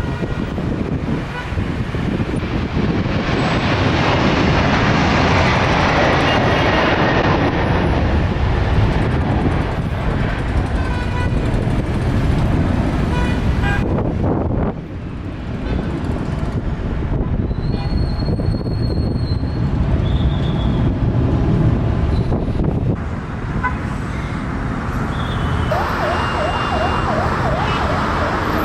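Jet airliner engines running loud and steady, swelling and then easing off. Near the end a wavering, siren-like tone sounds over it.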